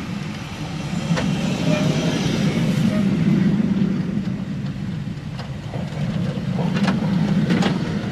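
Rhaetian Railway electric-hauled train rolling slowly past on snow-covered track: a steady low rumble that swells and eases, with a few sharp clicks from the running gear.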